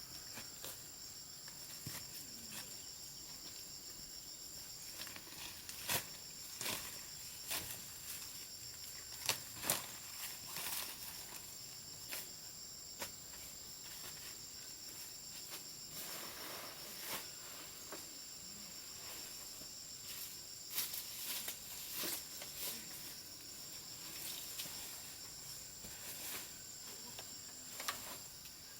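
Steady high-pitched chorus of crickets or cicadas, with scattered rustles and sharp clicks from handling or footsteps on top, a few louder snaps about a third of the way in.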